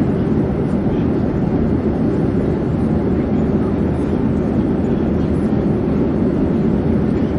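Steady low drone of an airplane in flight, even and unchanging.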